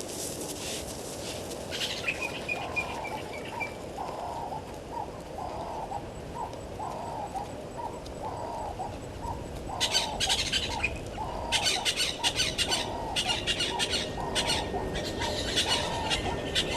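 A bird repeating a short cooing note over and over, about one and a half notes a second. From about ten seconds in, bursts of sharp, crackling high chatter join it.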